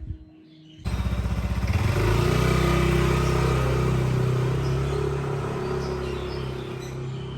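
A small engine running with an even pulsing beat, starting abruptly about a second in and slowly growing quieter.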